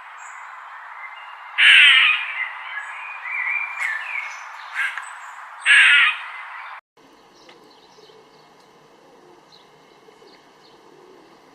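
Bird calls: two loud calls, each about half a second long, with smaller calls between, over a steady background hiss. About seven seconds in, a cut leads to a much quieter recording with only faint, scattered sounds.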